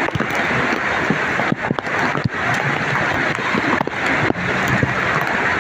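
Heavy rain and floodwater making a loud, steady rush, with scattered sharp splashes through it.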